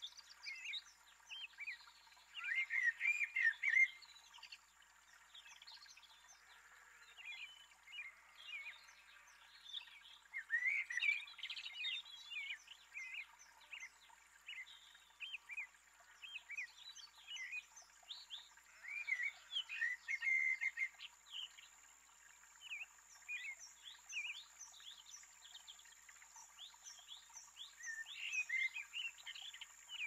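Birds chirping and calling, a busy stream of short high notes with louder flurries about two, ten, nineteen and twenty-eight seconds in.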